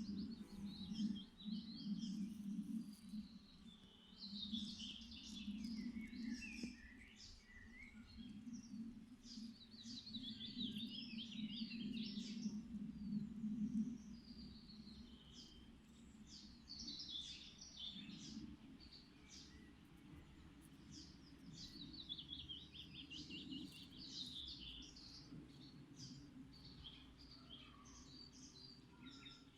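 Songbirds singing short trilled phrases every few seconds, over the low steady hum of bees buzzing, which is strongest in the first half and fades after about fourteen seconds.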